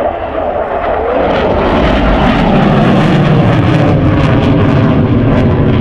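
Aircraft engine noise from a fixed-wing aircraft passing, loud, swelling about a second in and then holding steady.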